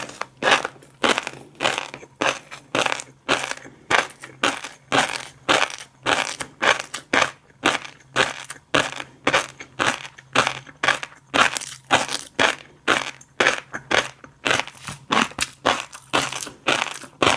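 Fish roe being chewed with the mouth close to the microphone: crackly, crunchy popping bites that repeat about two or three times a second.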